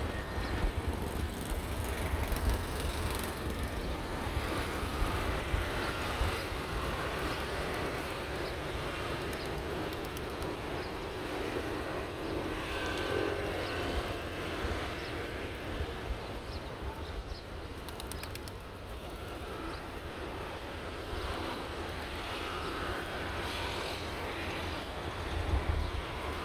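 Pigeons feeding, heard over a steady low rumble, with a few faint clicks.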